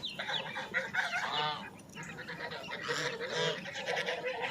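Domestic geese honking, a few short calls.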